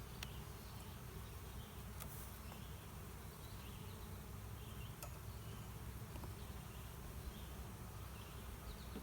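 Honeybees buzzing around an open hive in a steady low drone, with a few faint clicks.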